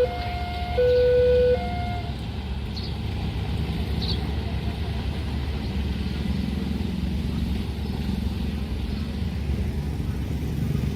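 Railway level-crossing warning alarm alternating between two electronic tones, high then low, about two notes a second, stopping about two seconds in. A steady low vehicle rumble follows.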